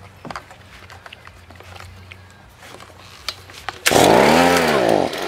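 Scattered handling clicks, then about four seconds in an Echo two-stroke leaf blower engine fires on the first pull of the recoil starter. It runs loud for about a second, its pitch rising and then falling back.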